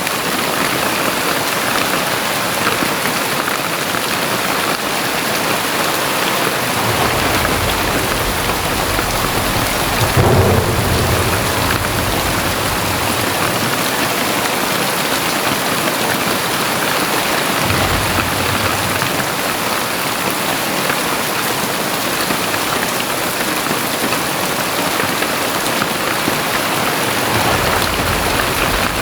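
Very heavy rain pouring steadily, with low rumbles swelling up and fading several times, once about a third of the way in and again near the end.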